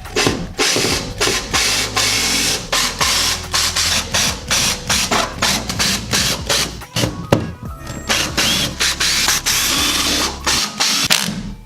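Rapid, repeated mechanical clicking and rattling of tools at work taking a table apart, with a steady low hum beneath.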